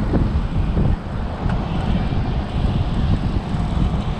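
Wind buffeting the microphone of a moving bicycle ride camera, a heavy, fluctuating low rumble.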